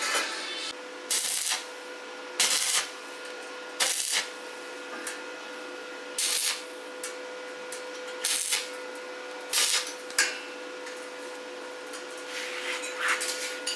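Hand work in a workshop: a series of short hissing, scraping strokes, each under half a second and a second or two apart, over a faint steady hum.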